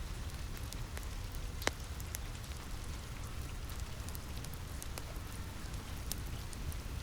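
Steady rain on a roof with a deep low rumble, mixed with the scattered sharp snaps of a crackling wood fire; one snap, a little under two seconds in, is louder than the rest.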